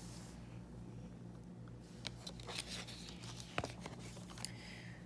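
Faint rustling and a few light clicks of a picture book's paper pages being handled and turned, over a steady low hum.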